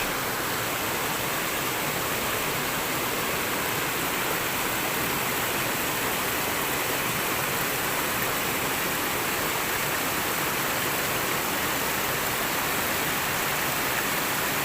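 Steady rush of flowing water from a mountain stream, an even unbroken hiss with no other events.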